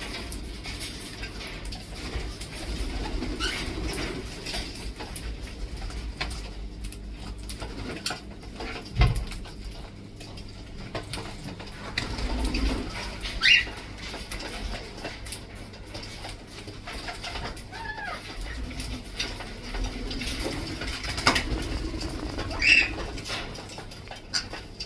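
Pet parrots giving a few short, high calls now and then, the loudest about halfway through and again near the end, over a low rumble with a couple of sharp knocks.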